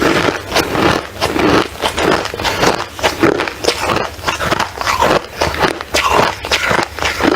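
Ice being crunched: a continuous run of crisp, irregular cracks and crunches.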